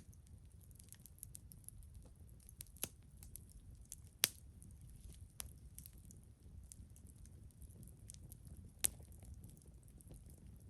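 Wood campfire crackling: scattered small ticks and snaps, with two sharp pops, about four seconds in and near nine seconds, over a low steady rumble.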